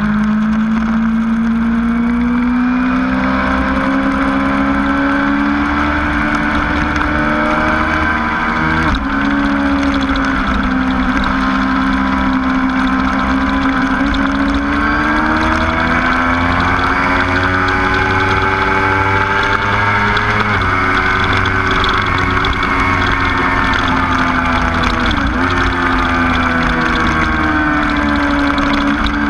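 Motorcycle engine running hard on a race track, its pitch climbing and easing as the rider accelerates and slows, with sudden jumps in pitch a few times.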